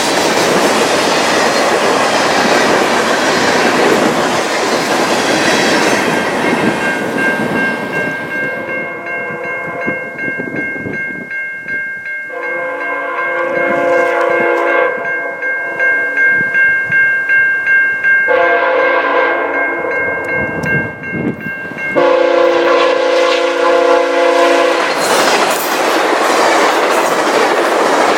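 A train passing with steady wheel-on-rail rumble and clatter. Through the middle, a locomotive's multi-chime air horn sounds in long, steady blasts, then the rail noise comes back.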